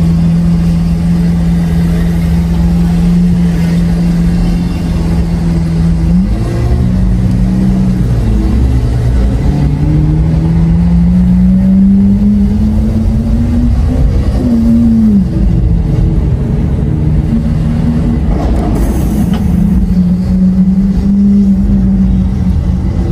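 Lamborghini Aventador SV's V12 through a Capristo exhaust, holding a steady engine note at a cruise. It then pulls up through the revs for about five seconds, the pitch rising steadily, falls away sharply, and settles again at a steady note.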